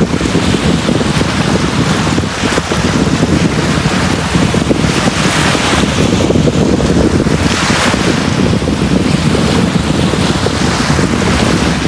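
Sea waves breaking on a beach: a continuous rush of surf with a deep low rumble, and waves washing up more loudly about every two to three seconds.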